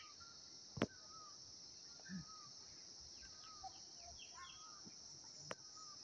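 A faint, steady high-pitched insect drone, with scattered short falling bird chirps over it. A sharp click comes just under a second in and a smaller one near the end.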